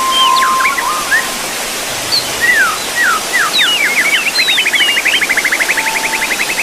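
Birds chirping, with many quick rising and falling whistled notes over a steady rushing hiss. From about two-thirds of the way through, one bird gives a fast trill of roughly ten notes a second. A steady whistle-like tone holds for about the first second, then stops.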